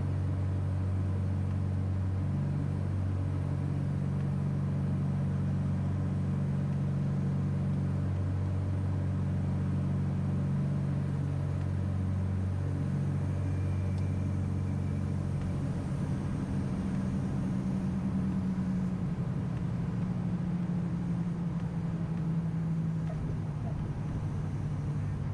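Cessna 421B's twin piston engines droning steadily in the cabin on short final. About fifteen seconds in, the drone shifts in pitch and turns rougher.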